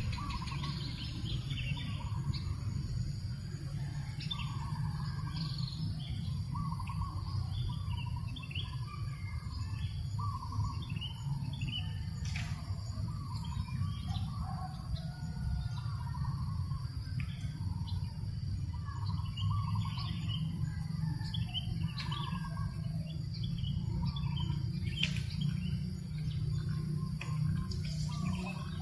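Several birds chirping and calling in short, overlapping phrases, over the steady low rumble of a breeze.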